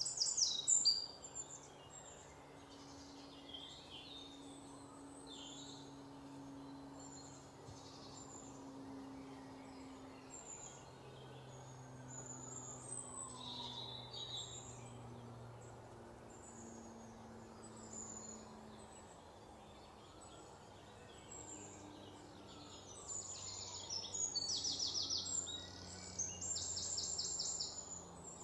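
Birds chirping in the background over a faint low steady hum, with a brief louder call right at the start and a rapid pulsing trill in two bursts near the end.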